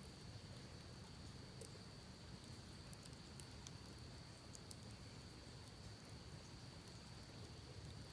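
Faint campfire crackling, a few small scattered pops, over a low steady rush from the creek and a thin, steady high-pitched insect drone.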